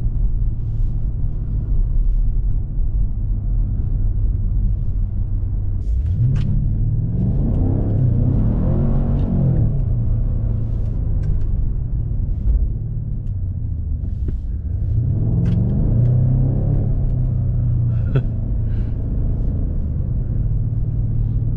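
BMW M5 Competition (F90) 4.4-litre twin-turbo V8 running with a low, steady drone. Its pitch rises and falls about seven seconds in, and climbs again about fifteen seconds in.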